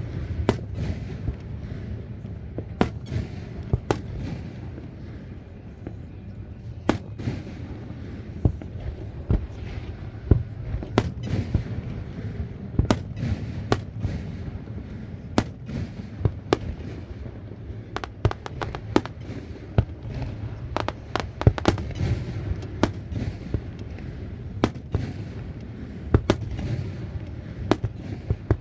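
Aerial fireworks display: a steady run of sharp shell bursts and bangs at irregular intervals, sometimes in quick clusters, over a continuous low rumble.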